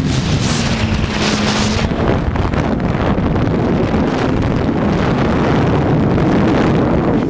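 Racing motorcycle at speed, heard over heavy wind buffeting on an onboard microphone. A steady engine note holds for about a second and a half early on, with surges of hiss throughout.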